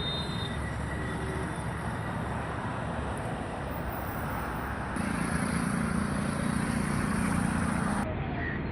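Steady road traffic noise. A vehicle gets louder about five seconds in, and the noise drops off abruptly near the end.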